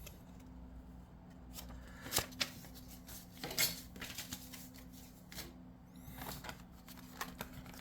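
Faint rustling of paper and a few sharp clicks from handling paper and clear plastic packaging, the two loudest clicks about two and three and a half seconds in, over a low steady hum.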